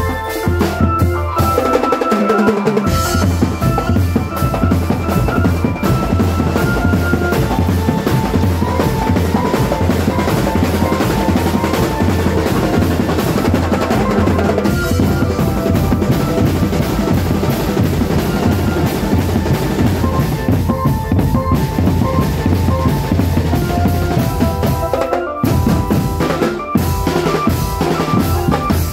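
Marching drum band playing a fast, steady beat on bass drums and snare drums, with a melody of short high notes over it. The drumming stops for a moment twice near the end.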